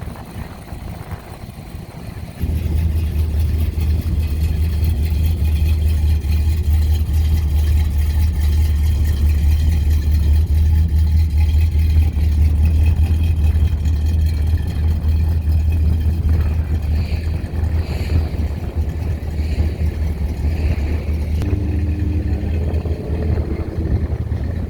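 A car engine running close by, a steady deep rumble that starts abruptly about two and a half seconds in, with wind noise on the microphone.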